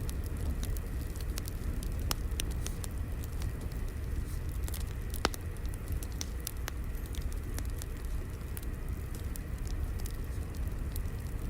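Crackling wood fire: a steady low rumble with scattered, irregular sharp pops and snaps.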